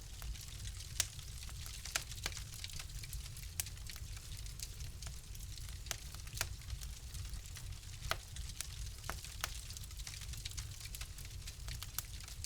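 Wood fire crackling: irregular sharp pops and snaps, a few louder ones scattered through, over a steady low rumble and soft hiss.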